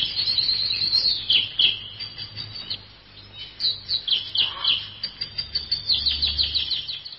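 Birds singing: runs of short, high, falling chirps, with a lull in the middle and a quick run of notes near the end.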